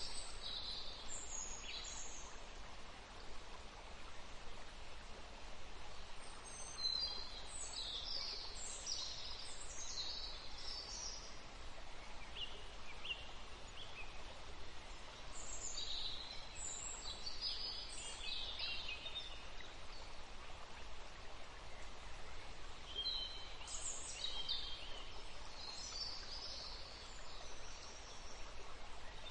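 Birds chirping and singing in several short bursts with pauses between, over a steady background hiss.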